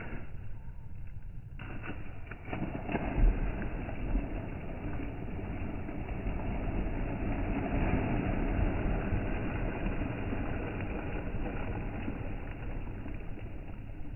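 Steady rumble of a moving car heard from inside the cabin, with a few louder knocks about three seconds in.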